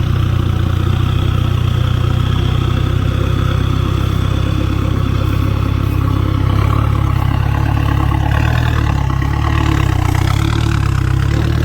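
Diesel engine of a loaded six-wheel dump truck running loud through its exhaust as the truck pulls away. It holds a steady low tone, with small shifts in pitch from about two-thirds of the way in.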